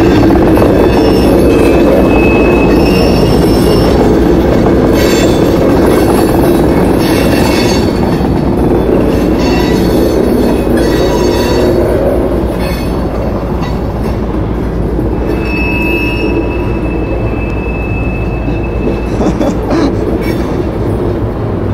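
A CSX diesel freight locomotive hauling a loaded coal train runs past close by, a heavy rumble that slowly eases off as it moves away. Twice the wheels give a thin, steady high squeal: briefly about two seconds in, and again for several seconds near the end.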